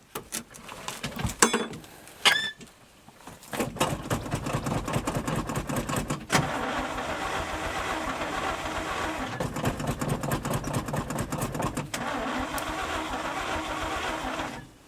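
Starter cranking the 1971 International 1890 truck's engine for about eleven seconds without it catching; the engine is not yet pulling fuel. A few clicks and a short squeak come before the cranking begins, and the cranking cuts off abruptly.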